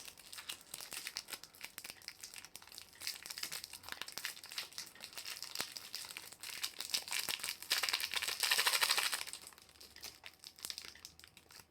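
Sweet packets and wrappers crinkling and rustling as they are handled and torn open, with a louder stretch of crinkling about eight seconds in.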